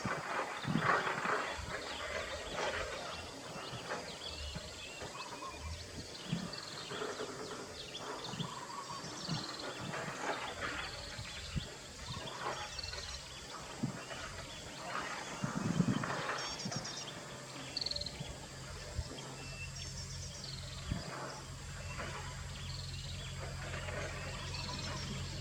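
Outdoor birdsong: short, high chirps and calls repeating at irregular intervals over scattered background noise, with a steady low hum coming in during the second half.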